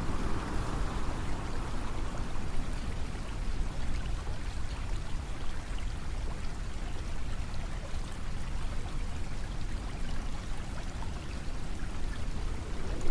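Steady rushing water, a continuous even wash of noise with a deep rumble beneath it, swelling a little near the start and the end.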